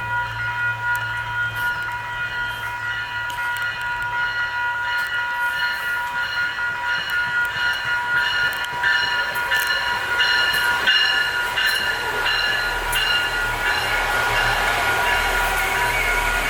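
Electronic railroad crossing bells ringing steadily while a SMART Nippon Sharyo diesel multiple-unit train approaches and passes. The train's engine and rail noise grow louder from about halfway through, with a deep rumble building near the end.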